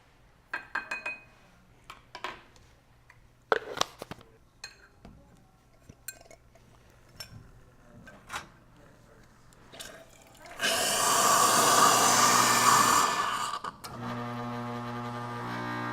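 Metal scoop and parts clinking against a container for several seconds. About ten seconds in, a loud rush of water starts running into the container for a few seconds, then settles into a quieter steady pour with a ringing tone as it fills, which runs on to the end.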